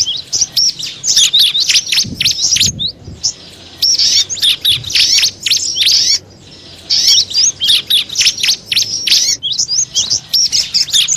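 Small songbirds chirping rapidly: a bird-lure call recording of high, sharp, quickly falling notes in fast runs, broken by two short pauses.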